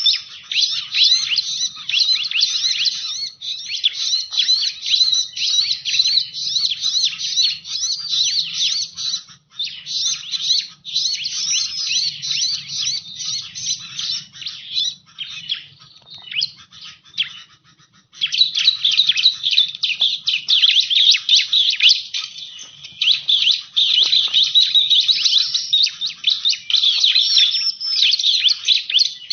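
Bar-winged prinia (ciblek) lure call: a busy, rapid run of high chirps and twitters, breaking off for a couple of seconds a little past halfway, then resuming.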